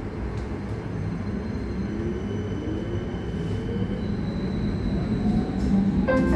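Running noise of a Berlin U-Bahn type JK train, heard from inside the car: a steady rumble of wheels on rail, with the electric traction motors' whine rising steadily in pitch as the train speeds up. A brief chime-like tone sounds at the very end.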